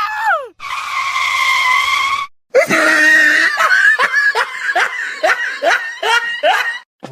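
High-pitched vocal sounds: a held cry lasting over a second, then a quick run of about a dozen short calls, each falling in pitch, roughly three a second.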